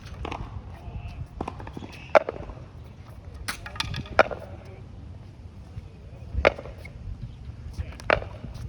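Tennis balls knocking on a hard court, sharp single knocks a second or two apart, the four loudest at irregular gaps.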